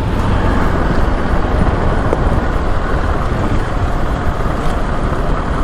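KTM 690 Enduro R's single-cylinder engine running at a steady pace while the bike is ridden, under a dense rush of wind and riding noise.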